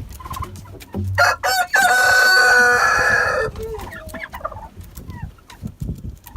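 Rooster crowing once, a loud drawn-out crow starting about a second in and lasting about two seconds, followed by softer hen clucking.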